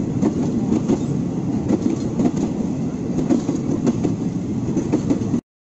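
A train running on rails: a steady rumble with irregular wheel clacks over the rail joints. It cuts off suddenly about five seconds in.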